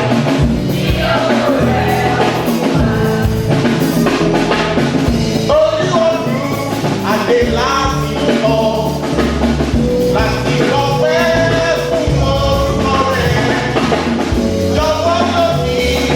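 Church praise music: voices singing over drums with a steady beat.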